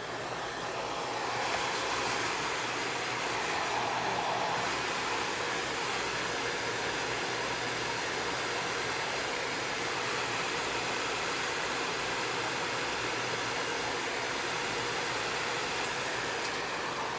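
Hair dryer switched on, building up over the first second or so and then running steadily with a constant hiss of blown air, drying a prairie dog's fur.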